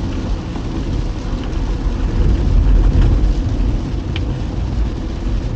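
A car driving in the rain: a steady low rumble of road and engine with a hiss of rain over it, and a single sharp tick about four seconds in.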